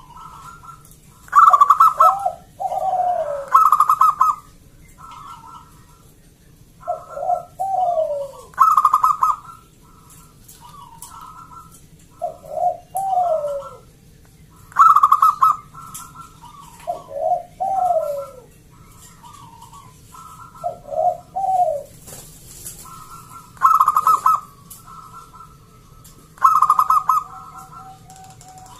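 Zebra dove (perkutut) cooing: loud rolling phrases of coos with falling notes, repeated every few seconds, with softer coos in between.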